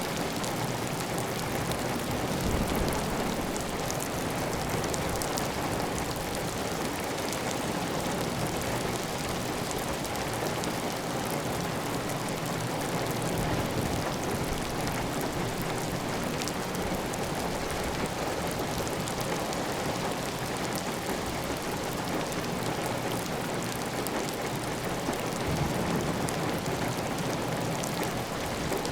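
Steady heavy rain pattering on a clay tile roof, with water running off the roof edge. Two brief low swells come about two seconds in and near the end.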